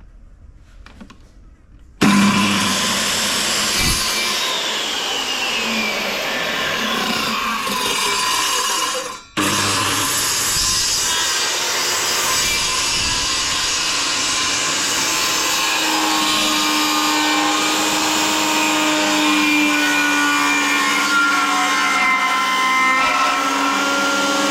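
Power saw cutting plywood: it starts about two seconds in, runs steadily with its pitch shifting under load, stops for a moment about nine seconds in, then cuts on.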